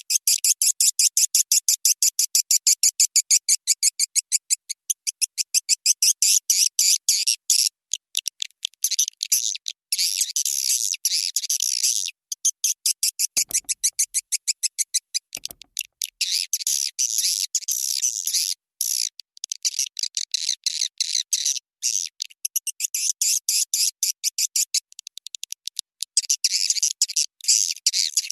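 Swiftlet lure call: a recording of swiftlet twittering, very rapid high-pitched chirps in dense runs broken by short pauses, the sound played in swiftlet houses to attract birds to nest.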